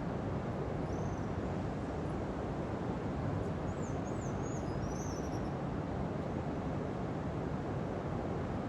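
Steady rush of ocean surf on a beach, with a few faint, high bird chirps about a second in and again midway.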